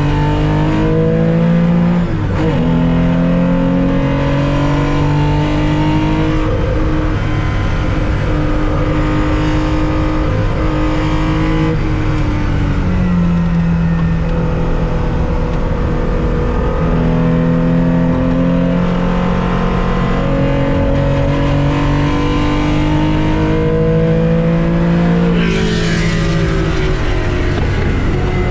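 1965 Porsche 911 2.0's air-cooled flat-six heard from the cockpit at racing speed, its pitch climbing slowly through long pulls, with upshifts about two seconds in and about twelve seconds in. Near the end the pitch drops sharply together with a brief burst of noise.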